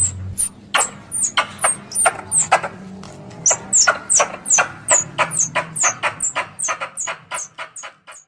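Plantain (coconut) squirrel lure call: a rapid series of short, sharp, high chirps, each dropping in pitch, about three a second and quickening, then fading out near the end. It is the squirrel's loud, drawn-out call, played to draw wild squirrels in.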